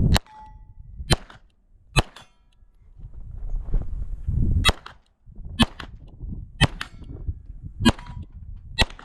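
Beretta 92 9mm pistol fired eight times at about one-second intervals, with steel target plates ringing on the hits.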